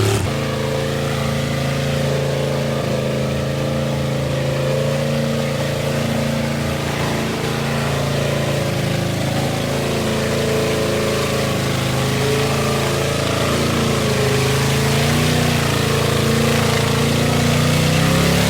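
Mud truck's engine running at high, fairly steady revs, its pitch wavering slightly, under a steady hiss.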